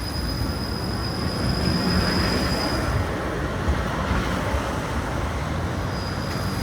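Tram car running on its rails, with a steady rumble and rattle of the car and wheels, a little louder in the middle.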